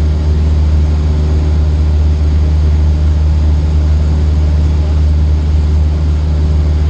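Cessna 152's four-cylinder Lycoming engine and propeller droning steadily in flight, heard from inside the cabin, with a strong low hum and no change in power.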